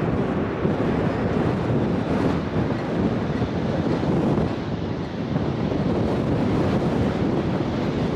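Strong wind buffeting the microphone: a loud, steady, low rumbling noise that surges and dips without letting up.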